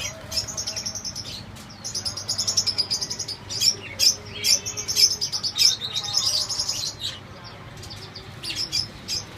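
Small cage birds chirping and chattering in rapid runs of high chirps. The bouts come one after another and are busiest through the middle.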